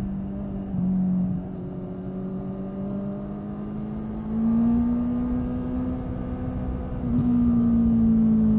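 Honda 650 inline-four motorcycle engine running on the move at steady throttle. Its pitch rises a little about four seconds in, eases back, then dips and climbs again near the end, where it gets louder.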